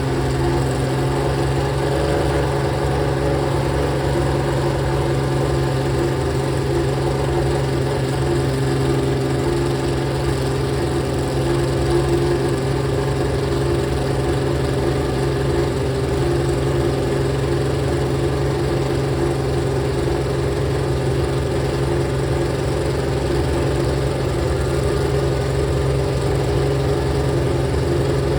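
Ferrari 639 Formula One prototype's 3.5-litre V12 engine idling at a steady speed while warming up.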